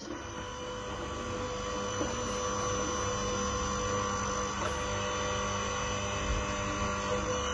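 Hydraulic log splitter's motor and pump running with a steady hum and low rumble.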